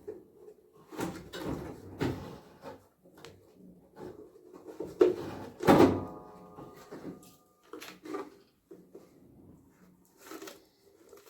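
Knocks and clunks of metal parts and tools being handled during washing-machine repair, the loudest strike about six seconds in leaving a short metallic ring.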